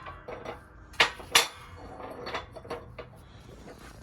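Metal parts and tools clinking and knocking against each other while being handled, with two sharper knocks about a second in.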